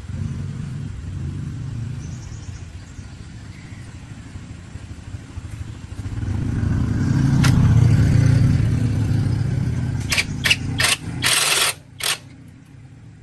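A machine running with a low rumble that swells in the middle, then five or six short, sharp noisy bursts near the end before the running fades.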